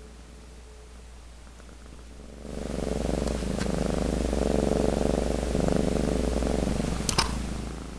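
A cat purring, starting about two and a half seconds in, with a sharp click near the end.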